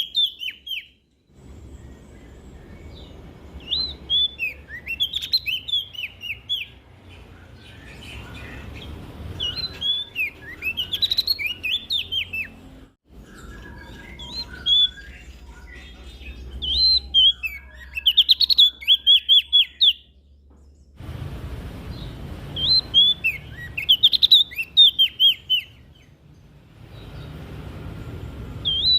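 Prenjak daun songbird singing, with quick twittering phrases of high, sharply sliding notes, each a second or two long and repeated every few seconds. A low background rumble cuts in and out abruptly several times.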